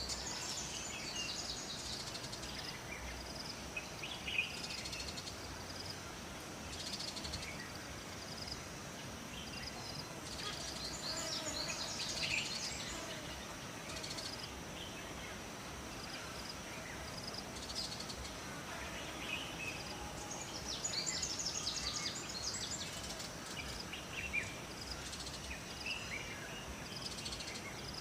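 Forest ambience: several birds chirping and trilling in bursts every few seconds, over a steady high insect buzz and a faint even hiss.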